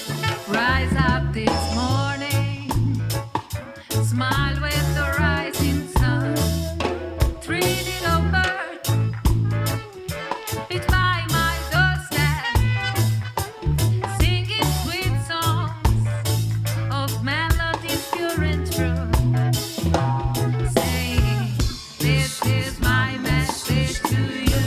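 Live band playing a reggae song, with bass and drum kit keeping a steady groove and a melody line running over them.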